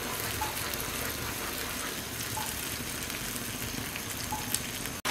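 Thick yogurt, nut and spice paste sizzling and bubbling in hot oil in a pan as it is stirred with a spatula, a steady frying sound. This is the masala being fried down (koshano) until the oil separates.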